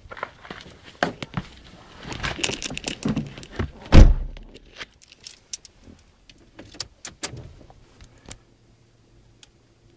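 Keys jangling and clicking rattles, then a loud thud about four seconds in as a Fiat Grande Punto's door is shut, followed by a few scattered clicks and a faint steady hum.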